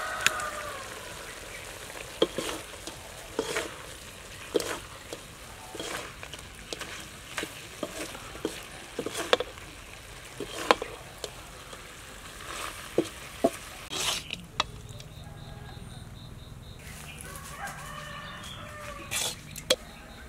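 Snake pieces and holy basil stir-frying in oil in a wok, sizzling steadily, with a spatula knocking and scraping against the pan about once a second. The frying and knocking stop about two-thirds of the way through, leaving a quieter hum.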